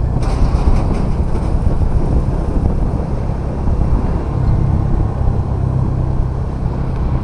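Bajaj Dominar 400's single-cylinder engine running steadily under way, with a constant rushing noise over it.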